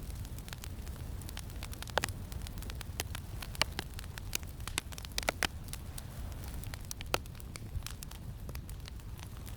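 Campfire crackling, with irregular sharp pops scattered through, the loudest about two seconds in and again near seven seconds, over a steady low rumble of wind.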